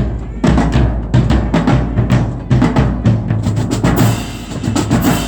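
Marching band drumline playing a cadence: bass drums and snare drums beating a steady, loud rhythm, with a bright hissing wash joining about four seconds in.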